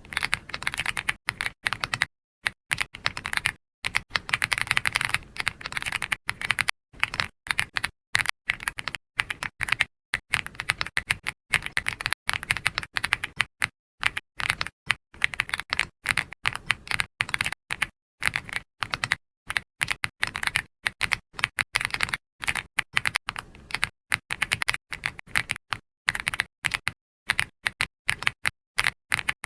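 Computer keyboard being typed on: quick, irregular runs of keystroke clicks with short pauses between them.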